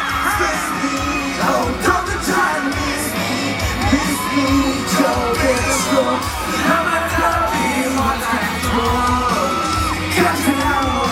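Live pop music played loud over a concert sound system, with a sung melody and fans yelling along.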